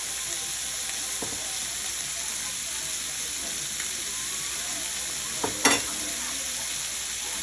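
Sliced turkey sausage sizzling steadily in a frying pan. A couple of sharp knocks stand out a little over five seconds in.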